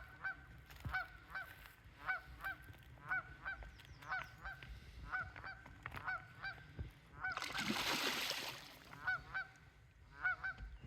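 Geese honking over and over, short arched honks that come in quick pairs about once a second, with a brief rush of noise about three quarters of the way through.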